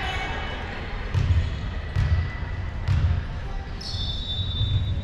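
A ball thudding and knocking on a gymnasium floor, with echoing hall noise and crowd chatter.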